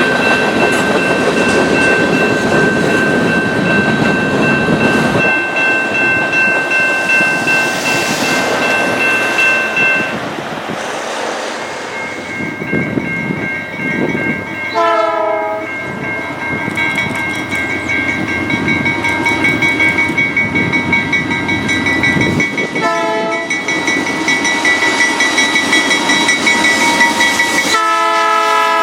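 A train rolling past with wheel rumble over the rails, and a steady high ringing tone running underneath. A locomotive horn sounds in short blasts about halfway and again a little later, then a longer blast starts near the end.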